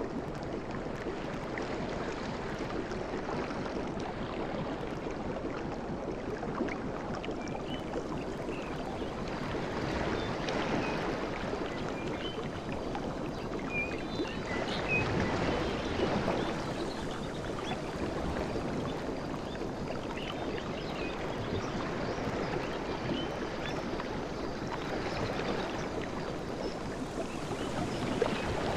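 Sea waves washing onto a beach: a continuous rush of surf that swells up several times as larger waves break.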